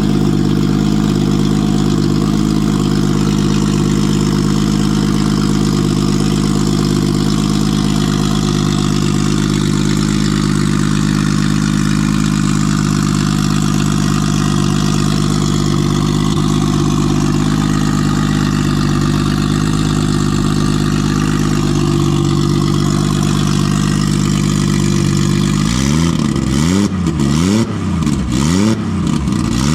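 Nissan RB20 straight-six engine idling steadily on all six cylinders, its cylinder 5 restored after a faulty lifter was replaced. About four seconds before the end it is blipped several times in quick succession, the pitch rising and falling with each rev.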